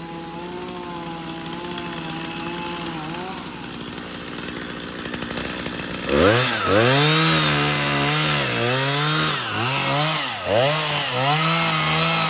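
Two-stroke chainsaw running steadily, easing off, then revved up to near full throttle about halfway through, its pitch dipping and recovering several times.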